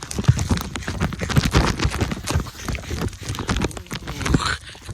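Running footsteps: quick, irregular thuds of feet pounding the ground during a play.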